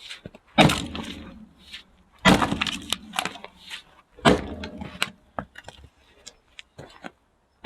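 Axe blows splitting firewood: three heavy strikes about two seconds apart, each followed by the split pieces clattering down. Lighter knocks of wood follow near the end.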